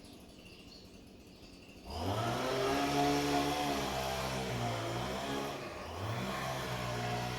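Bosch WAT286V0 washing machine's EcoSilence Drive motor turning the drum during the wash: about two seconds in, a humming motor tone rises in pitch and holds steady, winds down just before the five-second mark, then rises again about six seconds in for the next turn of the drum.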